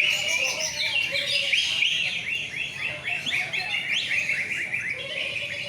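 Caged songbirds chirping and singing together, a dense, continuous run of quick repeated chirps.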